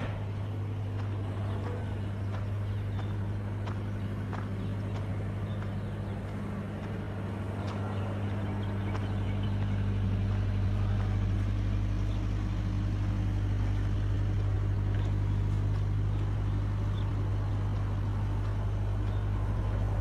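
An engine running steadily with a constant low hum, growing louder about halfway through.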